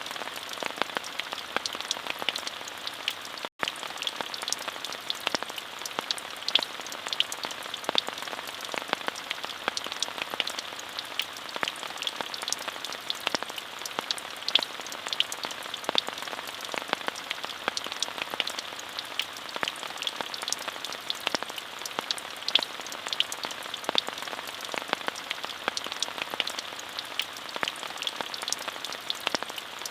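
Steady rain with many individual drops ticking sharply on a surface; the sound cuts out for an instant about three and a half seconds in.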